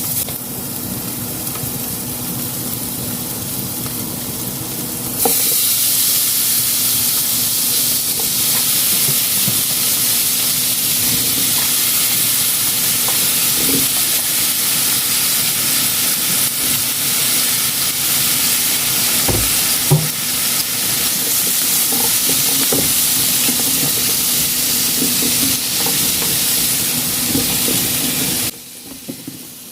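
Zucchini and shrimp sizzling in a frying pan, stirred with a utensil that clicks against the pan now and then. The sizzle jumps louder about five seconds in and drops away sharply near the end.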